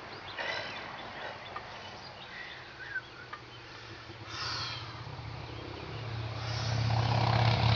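Outdoor background with a few faint bird chirps, then a motor vehicle's engine growing louder over the last couple of seconds as it approaches.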